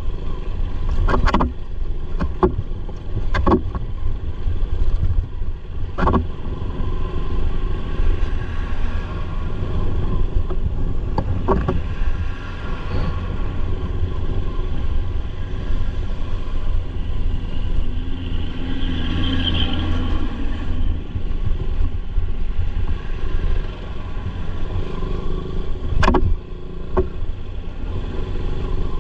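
Motorcycle riding along a road: a steady low rumble of engine and wind, with several sharp knocks and jolts scattered through it.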